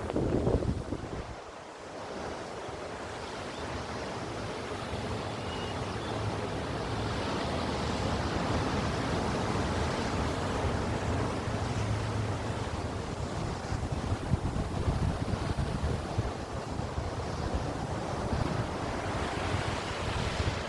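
Sea waves surging and breaking continuously, the wash swelling and building in loudness, with wind buffeting the microphone, hardest in a gust at the very start.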